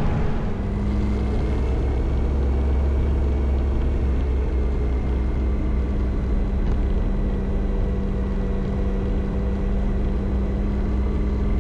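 Motorcycle engine running at a steady speed, a constant low hum with no revving, over a steady rushing noise.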